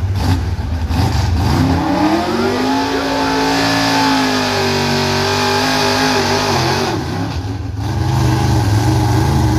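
Gasoline pickup truck engine revving up from a low rumble, held at high revs for several seconds, then falling back to a rough idle about eight seconds in.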